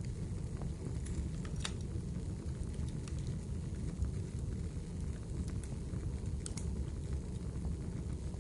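Wood fire burning in a fireplace: a steady low rumble with scattered sharp crackles and pops, about half a dozen across the stretch.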